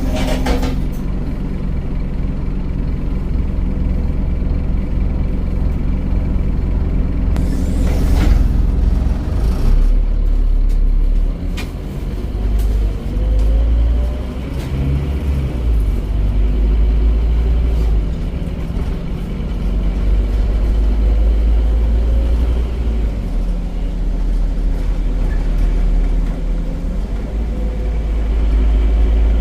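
Scania DC9 9.3-litre five-cylinder diesel engine of a Scania OmniCity bus running with its ZF automatic gearbox, its pitch rising a few times as the bus pulls away and accelerates. A short hiss of air comes about eight seconds in.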